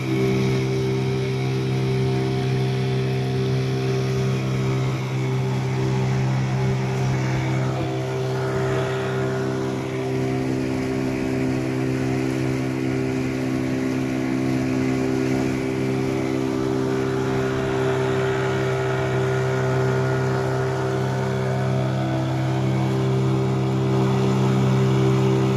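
Boat's engine running steadily at an even pitch, a constant drone with no change in speed.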